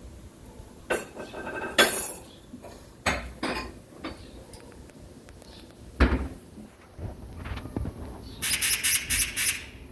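Domestic cat chattering at a bird: scattered sharp clicks and short squeaks, then a fast rattle of about six harsh clicks near the end.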